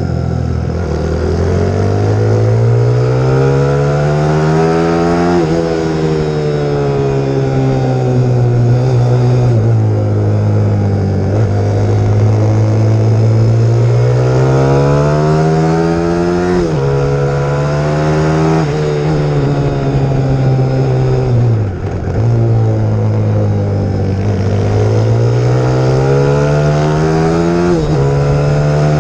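Pit bike's YX150 single-cylinder four-stroke engine being ridden hard round a track. Its pitch repeatedly climbs under throttle, then drops back sharply at shifts and as the throttle closes, with a brief lift-off about three quarters through.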